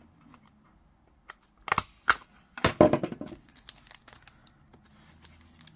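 Paper and cardstock rustling and crinkling as pieces are handled and slid into paper pockets, in a few short bursts about two and three seconds in, with some sharp clicks.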